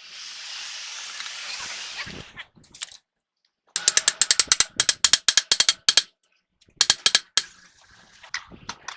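Hand ratchet wrench clicking in quick runs of strokes, two runs about halfway through, after a steady hiss in the first two seconds.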